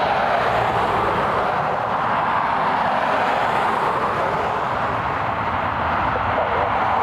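Jet aircraft engines running, a steady, loud rushing noise that holds level throughout.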